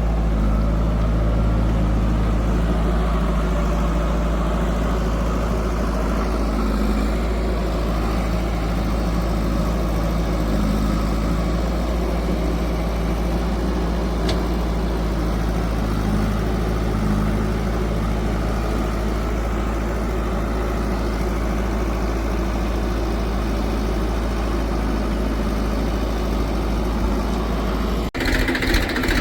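Heavy diesel engine of a backhoe loader or tractor running steadily with a deep low hum. Near the end the sound cuts abruptly to a faster, pulsing engine knock.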